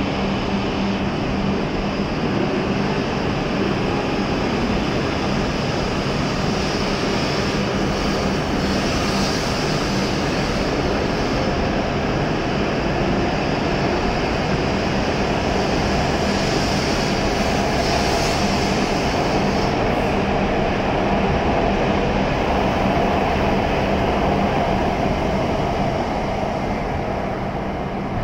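E7 series Shinkansen train pulling out of the station and running past along the platform: a steady rush of motor and wheel noise that eases off near the end as the last car clears.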